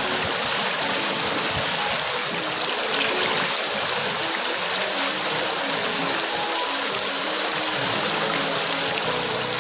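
Clear stream running over rocks: a steady rush of flowing water. Soft background music plays under it.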